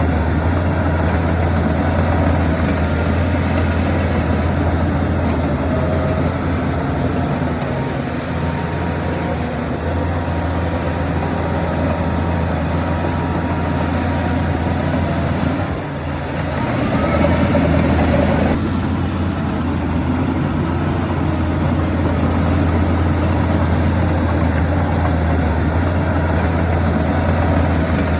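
Heavy diesel earthmoving machinery running with a steady low engine drone. About sixteen seconds in it dips briefly, then swells louder for a couple of seconds before settling back.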